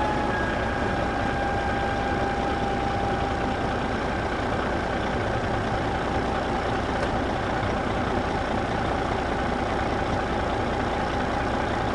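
Small motor of a homemade mini tractor running steadily, with a constant whine over a continuous rushing noise.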